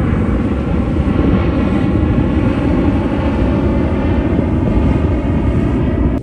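A steady, loud engine drone with an even humming pitch over a low rumble, which cuts off abruptly near the end.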